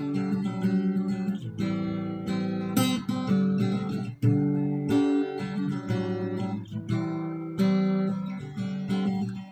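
Acoustic guitar strumming chords, an instrumental intro with no voice.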